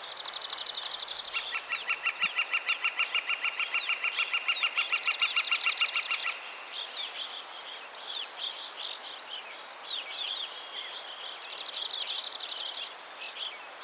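Several songbirds singing: a fast, high trill lasting just over a second comes three times, a lower trill of about five notes a second runs under the first two, and short chirps are scattered throughout.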